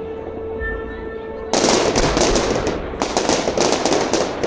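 Fireworks going off. About a second and a half in, a dense barrage of rapid, closely spaced bangs and pops begins and keeps going.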